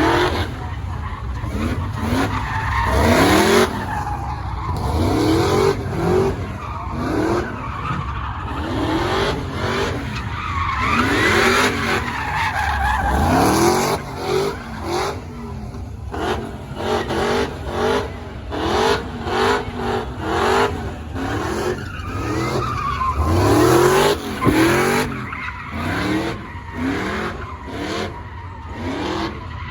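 Car engine revved hard again and again, each rev a quick rising note about once a second, with sharp cracks and tire screech.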